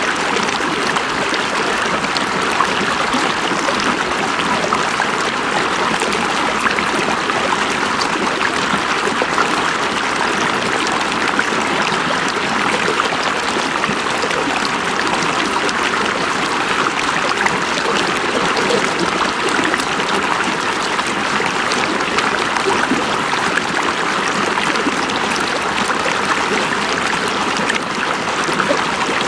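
River water flowing steadily over stones, an even rushing and burbling that stays the same throughout.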